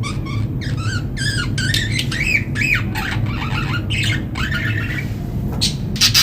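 Budgerigars chattering in quick warbling glides, then sharp short chirps near the end, over a steady low hum.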